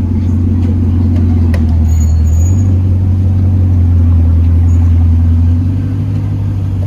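A car engine running with a deep, steady rumble. Its pitch steps up slightly about two and a half seconds in and it eases off a little near the end.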